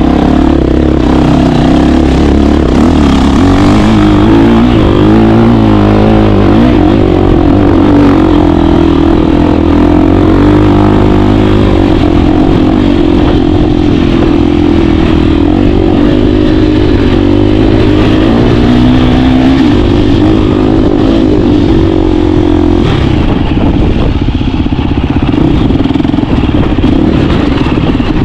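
KTM 350 dirt bike's single-cylinder four-stroke engine running under way, its pitch rising and falling gently with the throttle. The steady engine note thins out near the end.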